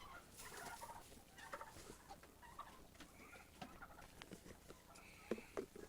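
Chickens clucking faintly in a few short, scattered calls, with some light clicks.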